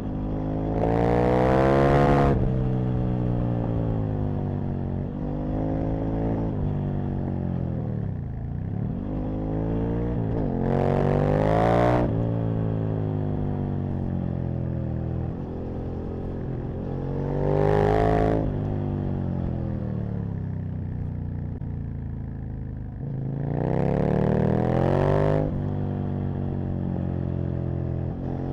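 Aprilia RSV Mille's 998 cc V-twin engine under way, revving up hard four times, each pull climbing in pitch and then dropping off sharply as the throttle closes. Steadier part-throttle running and lower revs between the pulls.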